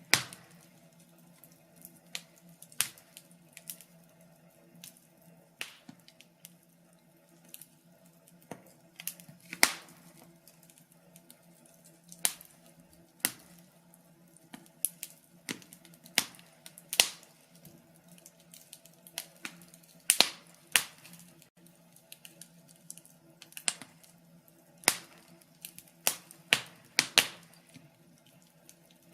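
Wood fire crackling, with irregular sharp pops and snaps coming every second or so, some much louder than others, over a faint steady low hum.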